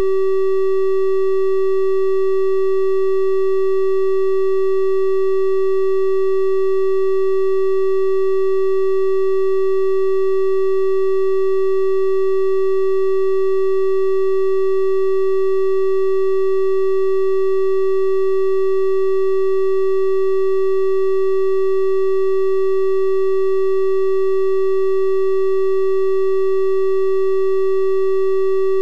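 Continuous 384 Hz triangle-wave tone, a single steady synthetic pitch with faint higher overtones, unchanging in level.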